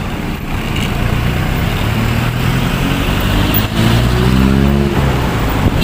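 Wind rushing over a motorcycle helmet's intercom microphone while riding, with a motorcycle engine audible underneath; about four seconds in the engine note rises in pitch as it accelerates.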